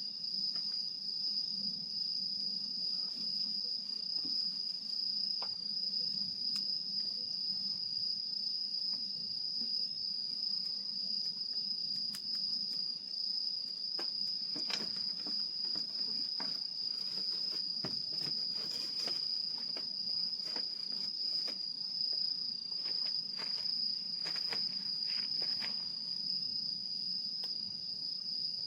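Night insects, crickets by their sound, trilling as one steady, unbroken high-pitched note. Scattered sharp crackles from a wood fire burning in a small fire stand come through, thickest in the middle and second half.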